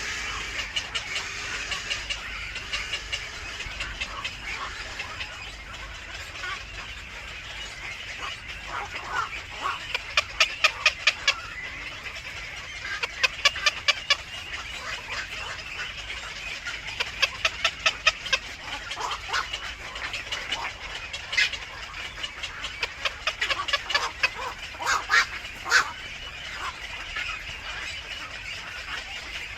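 Birds calling: runs of short, sharp notes repeated several times a second, coming in bursts a few seconds apart over a steady high background hiss.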